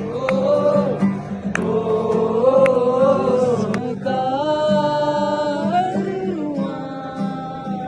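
A voice singing long, held notes with guitar accompaniment, as in a group jam session.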